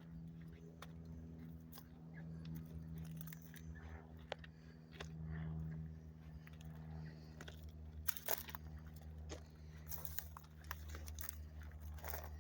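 Footsteps crunching on the loose rock ballast of a railroad track, in an irregular walking pattern that grows busier in the second half, over a steady low hum.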